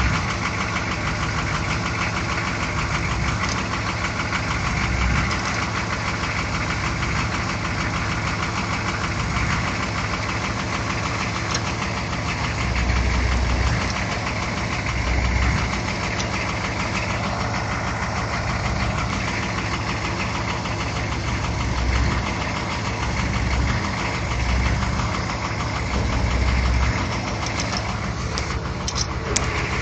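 Chevrolet K5 Blazer's GM IDI diesel engine running at idle, a steady drone with a few brief low swells.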